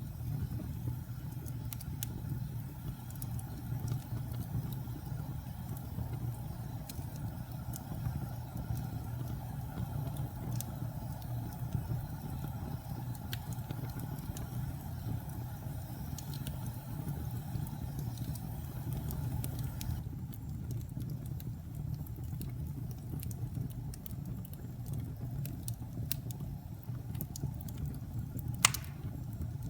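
Wood fire burning in a fireplace: a steady low rumble with scattered small crackles, and one sharp, loud pop near the end.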